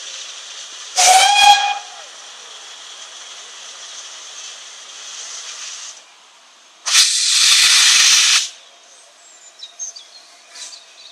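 Steam locomotive whistle giving one short blast about a second in, over a steady hiss of escaping steam. About seven seconds in, a loud rush of steam hisses for a second and a half, then stops.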